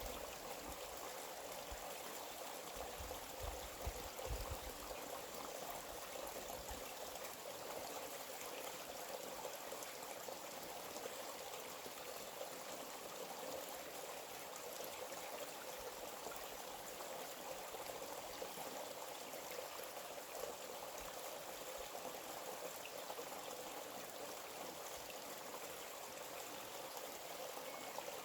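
A forest stream flowing steadily, an even rush of running water. A few brief low rumbles come in the first five seconds.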